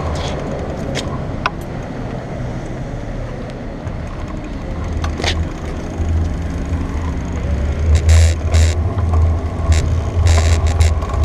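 Bicycle riding over rough ground: a steady low rumble of wind and tyres, with rattles and clicks from the bike. The knocks come thicker about eight seconds in and again near the end.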